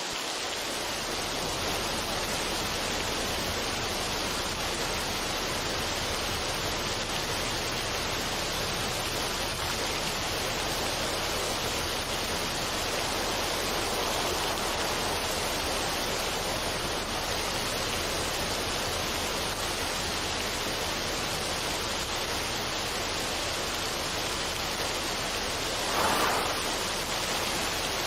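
Steady rushing noise, even across high and low pitches, with no tune or beat; a brief louder swell comes near the end.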